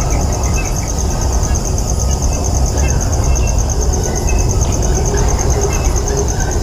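An insect's rapid, steady, high-pitched pulsing trill, over a low steady rumble, with faint short chirps scattered through it.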